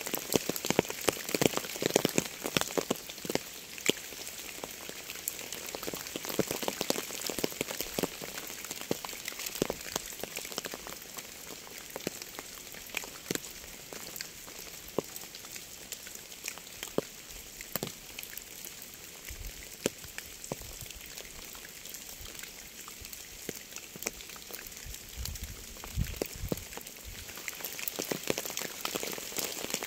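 Rain falling, with many separate drops ticking close by over a steady hiss; the rain is heavier at first, eases through the middle and picks up again near the end. A faint low rumble comes and goes about two-thirds of the way through.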